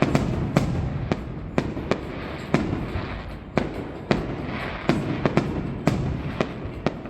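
Aerial fireworks shells bursting: an irregular run of sharp bangs, about two a second, over a steady low rumble.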